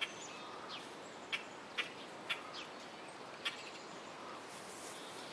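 Birds chirping: a handful of short, sharp high chirps at uneven intervals over a steady faint outdoor hiss.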